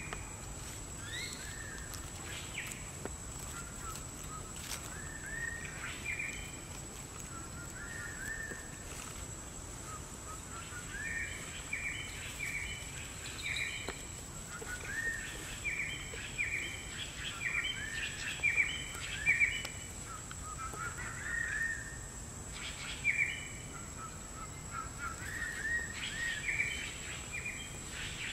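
Birds chirping: short rising notes repeated in quick runs, over outdoor ambience with a steady high thin tone underneath.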